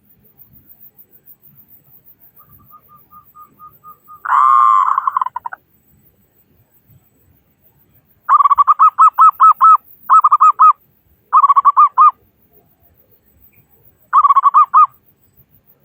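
Zebra dove (perkutut) singing. A few soft ticking notes lead into one loud note about four seconds in, followed by four bursts of rapid, pulsing coos.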